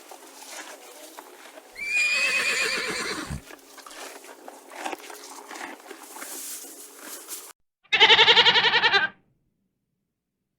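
A goat bleating twice: a wavering call about two seconds in, then a louder, quavering bleat near the end that stops abruptly.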